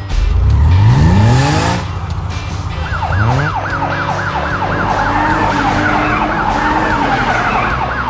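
Cartoon vehicle sound effects: an engine revving up quickly, a second short rev about three seconds in, then an emergency siren wailing fast up and down, about four cycles a second, to the end.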